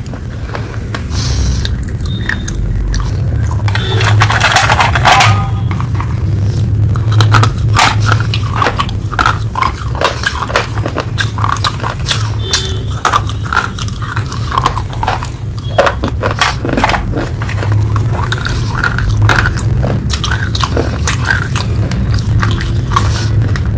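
Close-miked biting and chewing of hard, earthy pieces: dense, irregular crunches and crackles, heaviest about four to five seconds in, over a steady low hum.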